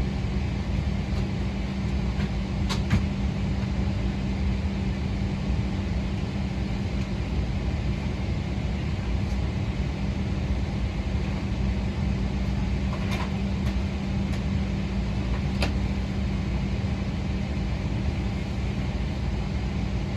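Steady ventilation and air-conditioning hum in the cabin of a Boeing 777-300ER parked at the gate, with a constant low drone. A few faint clicks sound about three seconds in and twice more later on.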